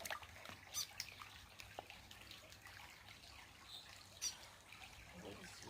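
Faint trickling of creek water, with two brief sharp splashes or drips, one about a second in and one past four seconds.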